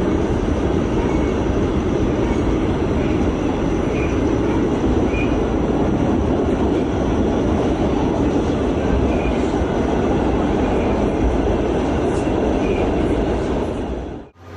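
A train running on the rails: a steady, loud rumble of wheels and track without a clear beat.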